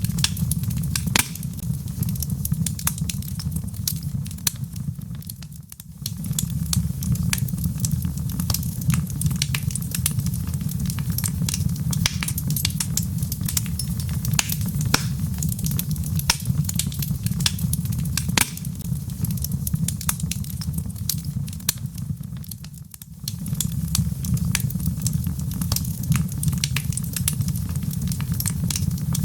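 Log fire in a fireplace crackling, with dense, irregular pops and snaps over a steady low rumble. The sound briefly fades and returns twice, about six seconds in and again a little past twenty-two seconds.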